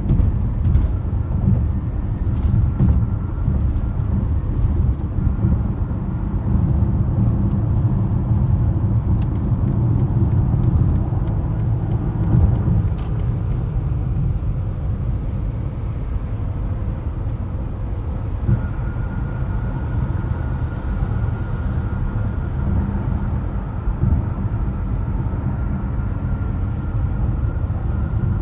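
BMW X5 (G05) cruising steadily, a continuous low rumble of road and engine noise with a few faint ticks in the first half. About two-thirds of the way in, a thin steady whine joins it.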